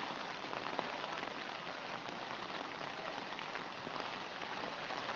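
Rain falling steadily: an even hiss of rain dense with fine drop ticks.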